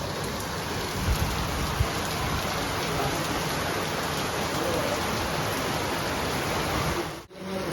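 Heavy rain falling steadily, with two low thumps between one and two seconds in. The sound drops out for a moment near the end.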